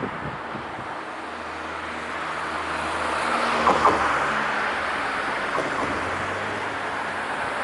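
A train passing, a steady rumble with a low hum that swells toward the middle, with a pair of sharp clicks at its loudest.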